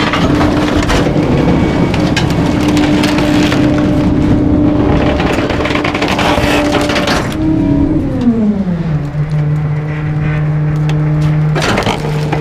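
Garbage truck's engine revved high to drive the hydraulic packer, with bulky items cracking and splintering as they are crushed. About seven seconds in the engine falls back to idle, then near the end a loud crunch comes as it revs up again for the next stroke.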